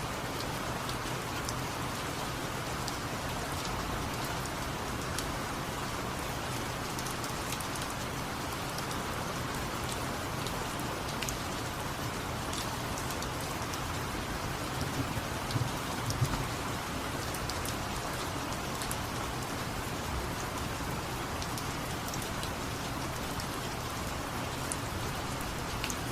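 Steady rain: an even hiss with scattered faint drop ticks, and a few soft knocks about fifteen seconds in.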